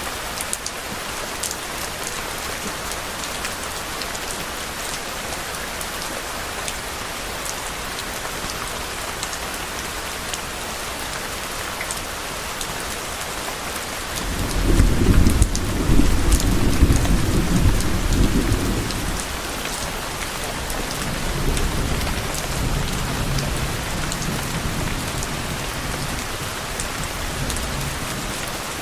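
Steady rain falling. About halfway through, a low rumble of thunder swells up and rolls for several seconds. A second, weaker rumble follows and fades out before the end.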